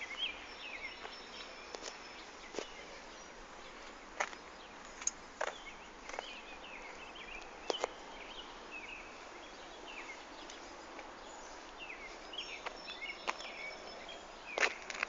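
Outdoor ambience with small birds chirping on and off, and scattered sharp clicks over a steady background hiss.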